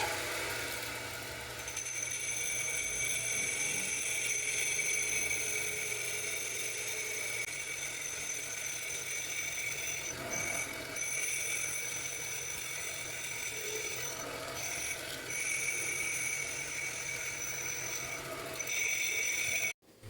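Homemade lathe running, with a steady high-pitched whine that drops out briefly a few times. The sound cuts off suddenly near the end.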